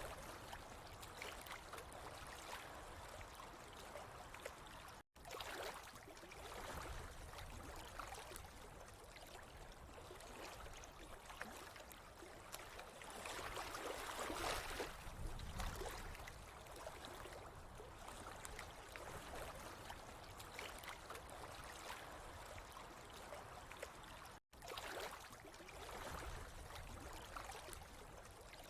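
Water trickling and gurgling steadily, louder for a moment about halfway through, with two brief drop-outs to silence, one near the start and one near the end.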